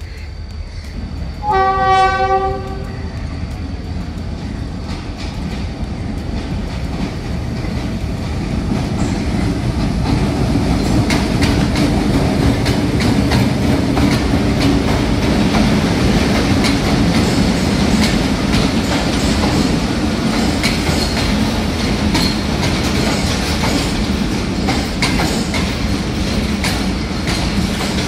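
Train horn sounds one short blast about two seconds in. Then the train's running noise builds: a steady rumble with wheels clicking over rail joints, growing louder over the next several seconds and then holding.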